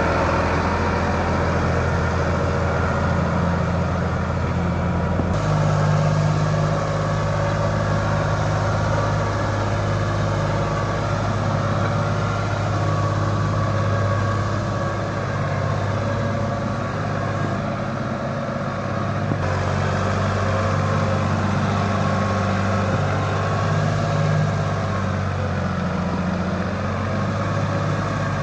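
Sonalika DI 35 RX tractor's diesel engine running steadily as it works through mud, its pitch changing abruptly about five seconds in and again near twenty seconds.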